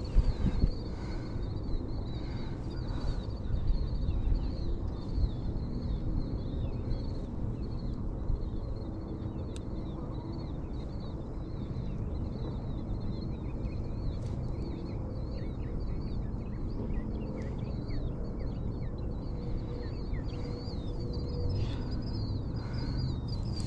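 Birds chirping continuously in a wavering high twitter over a steady low rush of wind and river water.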